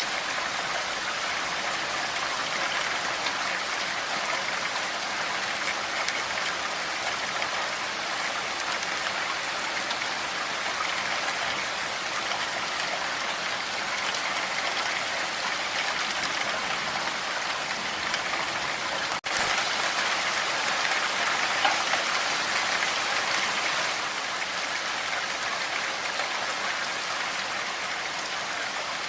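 Steady rain falling, an even hiss of many drops. A split-second gap comes about two-thirds of the way through, after which the rain is a little louder for a few seconds.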